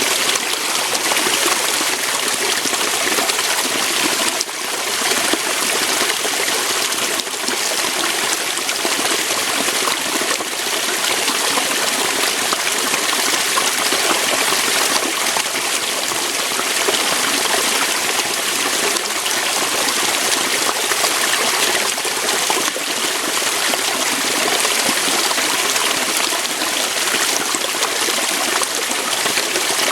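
Waterfall, water pouring and splashing over rocks: a steady, even rush and hiss with little low rumble.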